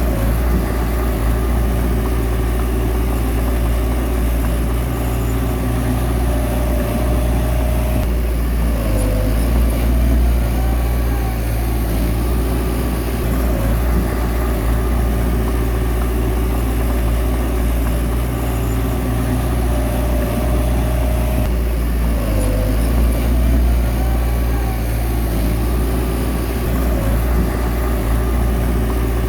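Bulldozer diesel engine running steadily, a deep continuous rumble with a rising and falling whine about ten seconds in and again some thirteen seconds later.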